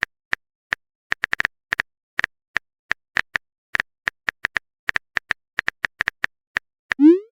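Phone keyboard typing sound effect: short, sharp tapping clicks at an uneven pace, about four a second. Near the end comes a quick sweep rising in pitch.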